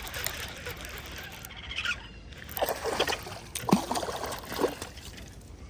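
Water splashing and sloshing, with several sharp splashes bunched in the middle over a steady background hiss.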